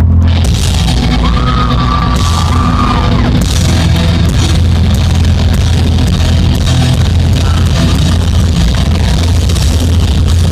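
Heavy metal band playing live, loud, with heavy bass and dense guitars. A shouted vocal comes in about a second in and is held for some two seconds.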